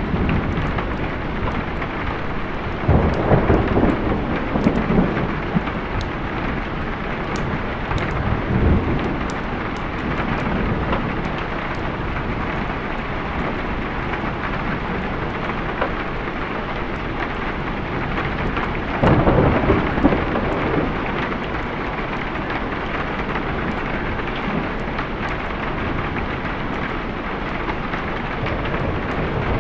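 Steady rain with rolls of thunder: a long rumble about three seconds in, a shorter one near nine seconds, and another about two-thirds of the way through.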